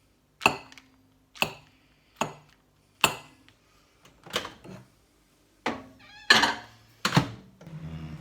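Kitchen clatter: about eight sharp knocks and clinks of plates and utensils being handled and set down while food is assembled. Near the end a steady low appliance hum starts.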